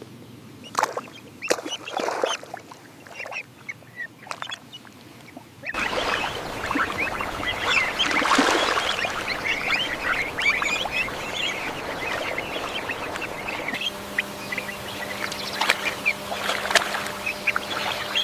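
Ducks calling: sparse short calls at first, becoming a louder, busier chorus about six seconds in.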